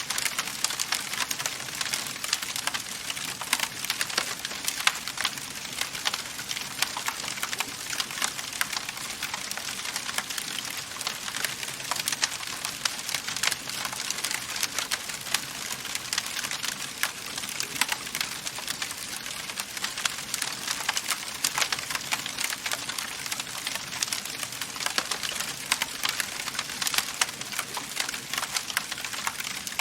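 Wood fire in a fireplace crackling steadily, with a constant hiss and many small sharp pops and snaps scattered throughout.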